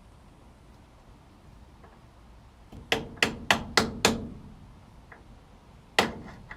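Hammer blows: a run of five quick strikes about three seconds in, then a single strike near the end.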